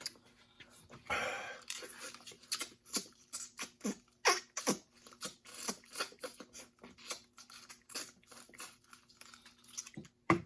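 Close-up eating sounds: irregular wet mouth clicks and smacks, with a breath about a second in.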